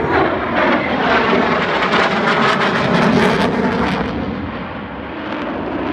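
Rafale fighter jet's twin turbofan engines passing overhead: a loud jet roar with a crackling edge, loudest around three seconds in, then easing off.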